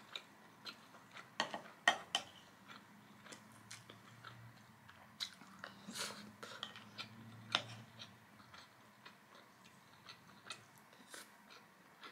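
Close-up chewing of a mouthful of truffle butter rice with egg: soft, irregular mouth clicks and smacks. In the first couple of seconds a wooden spoon scrapes and taps a ceramic bowl.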